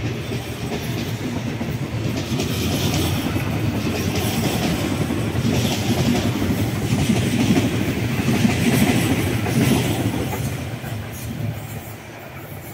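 Red-and-grey CPTM electric commuter train running past, its wheels clattering over the rails. It grows louder up to about eight seconds in, then fades as the last cars go by and the train draws away.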